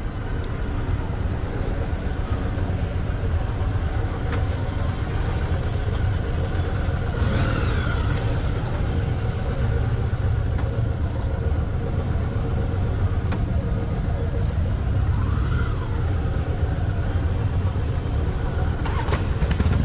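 Motorcycle engine running steadily, a continuous low rumble with no big revs.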